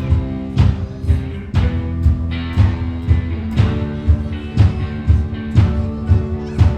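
Worship band music with guitar and drums, the drums keeping a steady beat of about two strokes a second under held chords.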